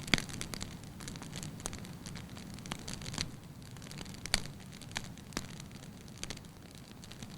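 Burning wood fire crackling: irregular sharp pops and snaps over a steady low rumble of flame, with the loudest pops just after the start and about four seconds in.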